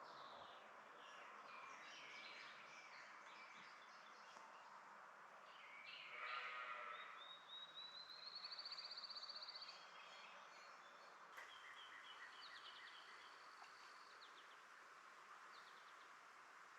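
Faint wild birdsong and calls from several birds over a steady background hiss: a harsh call about six seconds in, then a rapid trill that rises in pitch for about two seconds, with scattered short chirps.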